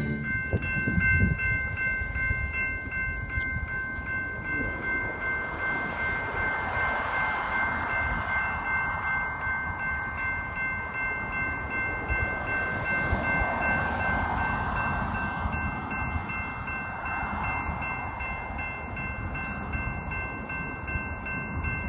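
Freight train rolling past, its wheels and cars rumbling and clattering on the rails, with a railroad crossing bell ringing steadily over it.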